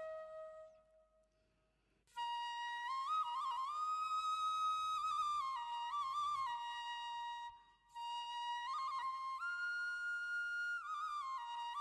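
Solo flute melody with ornamented, held notes, in two long phrases after a brief pause near the start, played as background music.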